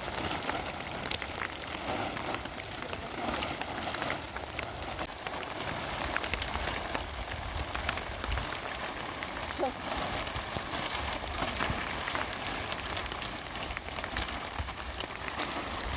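Heavy rain falling, a steady hiss dense with the patter of individual drops.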